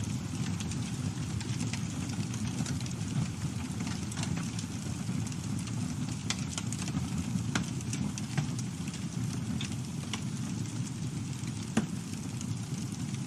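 Campfire burning: a steady low rumble of flames with frequent sharp crackles and pops, one louder pop near the end.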